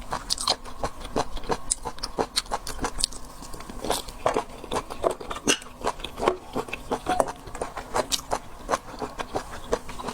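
Close-miked eating of seafood: wet mouth clicks, smacks and chewing, several irregular sharp clicks a second.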